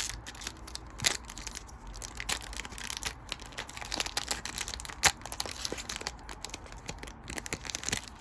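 Foil booster pack wrapper of a Pokémon trading card pack being torn open and crinkled by hand, with irregular sharp crackles, the strongest about a second in and near the middle.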